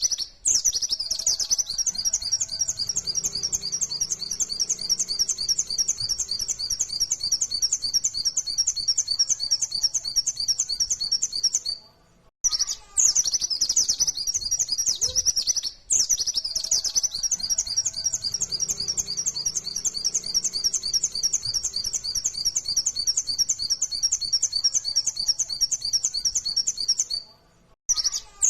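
White-eye (pleci) singing a long, rapid, continuous run of high chirping notes, the fast 'nembak' song, which breaks off briefly near the middle and again just before the end.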